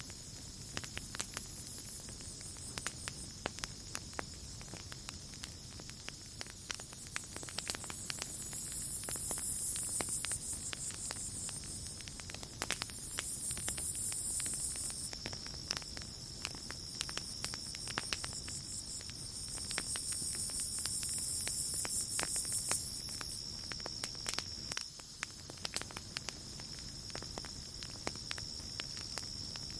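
Campfire crackling with frequent sharp pops over a low rumble, with a chorus of night insects: a steady high cricket trill and louder high-pitched buzzing that swells and fades in spells of a few seconds.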